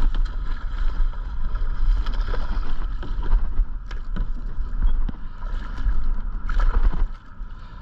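Wind buffeting the microphone in a steady, fluctuating low rumble, with scattered small clicks and knocks.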